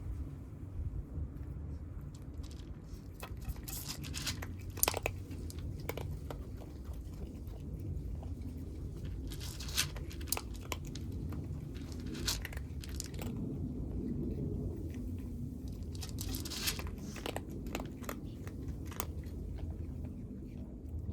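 Stray kittens eating, with irregular crunches and chewing of cat food over a steady low rumble.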